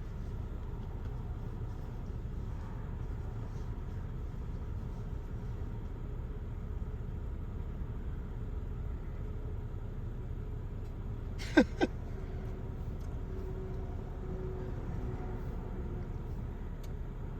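Car engine idling, heard from inside the cabin as a steady low rumble. About two-thirds of the way through come two quick, sharp chirps that fall in pitch.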